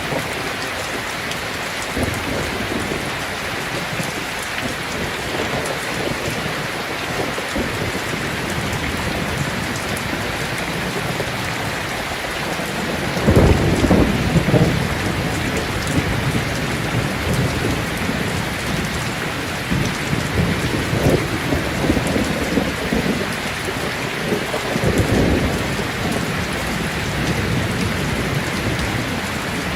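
Steady heavy rain with rolls of thunder. The loudest low rumble comes about halfway through, and further rumbles follow in the second half.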